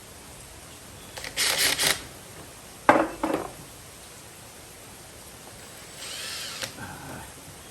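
Power drill driving a small hex-head screw in three short bursts, about a second in, about three seconds in and about six seconds in. A sharp knock opens the second burst.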